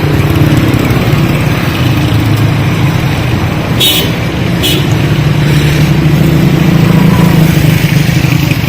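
A motor vehicle engine running steadily, with two short sharp clicks about four seconds in.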